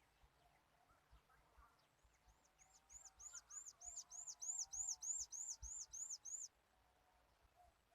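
A small bird calling a rapid run of high, arched notes, about three a second, growing louder and then stopping abruptly about six and a half seconds in. Fainter, lower warbling sits behind it.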